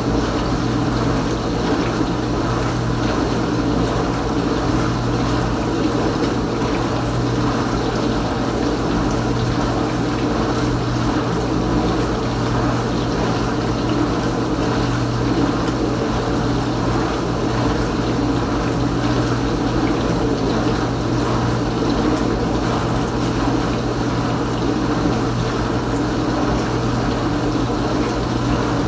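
Kenmore Ultra Wash 3 dishwasher running mid-cycle: its pump hums steadily while water swishes and sprays inside the tub.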